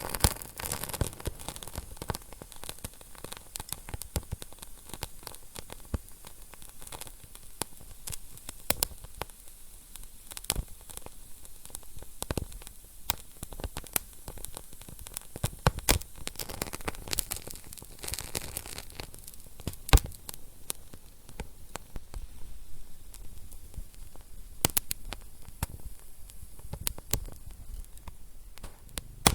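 Wood fire crackling in a fireplace: a soft steady hiss with irregular sharp pops and snaps, the loudest pop about twenty seconds in.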